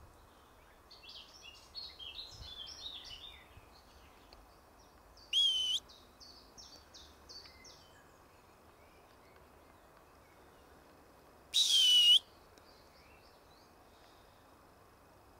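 Songbirds singing: quick runs of short, high chirping notes, and twice a loud, short whistle that dips and then rises in pitch, once about five seconds in and again about twelve seconds in.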